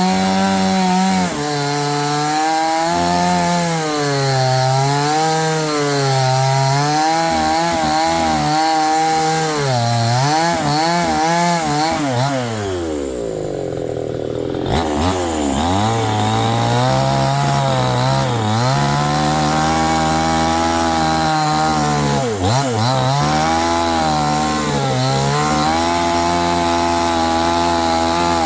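Chainsaw running and cutting, its engine pitch rising and falling with the load. About halfway through it winds down to a low idle for a couple of seconds, then revs back up and carries on cutting.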